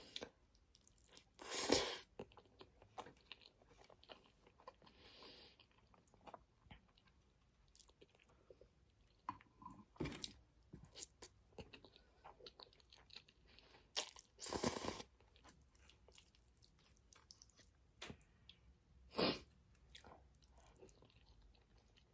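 Close-miked chewing of a mouthful of spaghetti: irregular wet mouth clicks and smacks. There are a few louder moments about 2, 15 and 19 seconds in.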